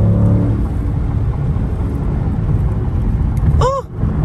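A Dodge Scat Pack's 6.4-litre HEMI V8 and its tyres drone steadily inside the cabin at about 85 mph cruising speed. A brief chirp bends up and down near the end.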